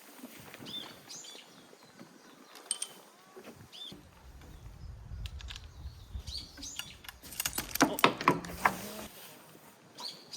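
Small birds chirping now and then, with a low rumble through the middle and a quick cluster of knocks and clatter about eight seconds in.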